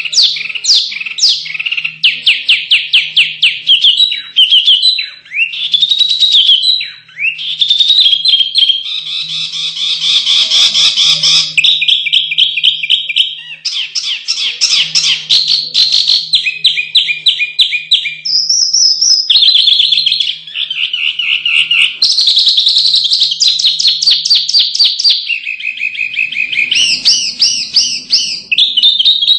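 Small songbirds singing a fast, loud, continuous medley of rapid trills, repeated chips and chattering phrases, the notes coming many times a second with only brief breaks. This is masteran song, played to coax caged contest birds into singing.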